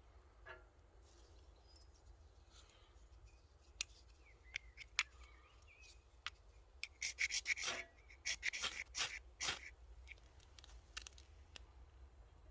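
Scraping, crackling and clicking from getting a small wood-burning camping stove lit and fed with wood. There are scattered single clicks, then a flurry of sharp, rasping scrapes about seven to ten seconds in.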